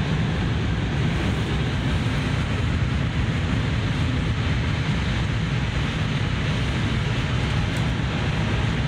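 A Tohoku Shinkansen Hayabusa train running at high speed, heard inside the passenger car: a steady low rumble with a rushing hiss.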